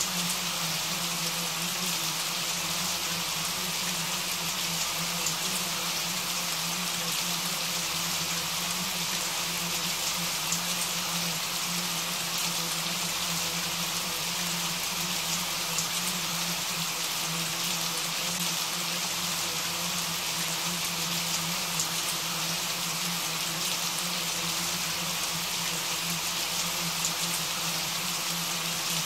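Steady rain falling: an even hiss with scattered faint drop ticks and a low steady hum underneath.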